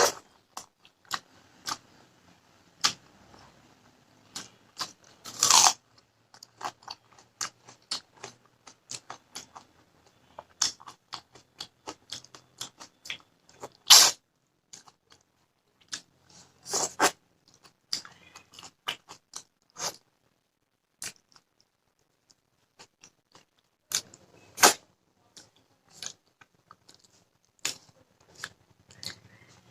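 Close-miked eating: a steady run of short chewing and mouth clicks, with a few louder crunches spread through.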